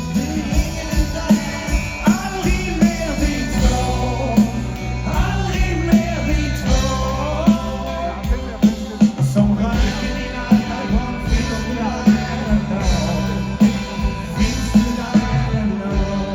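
Live rock band playing a passage without words, over a steady drum beat.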